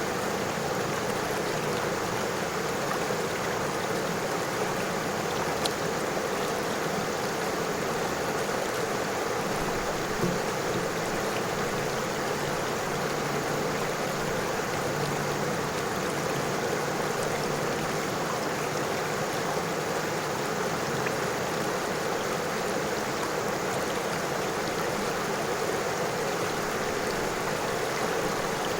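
A river flowing over stones, a steady, even rush of water with no change in level.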